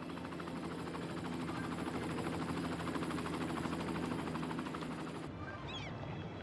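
An engine running with a steady hum and a fast, even pulsing, growing louder and then easing, cut off sharply about five seconds in. Two short bird chirps follow near the end.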